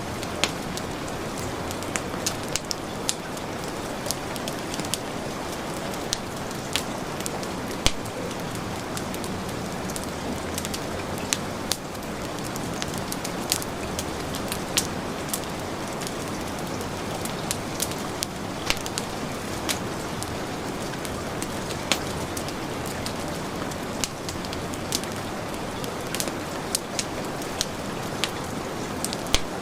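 Steady hiss of heavy rain mixed with the crackle of a wood fire, with irregular sharp pops and snaps every second or so.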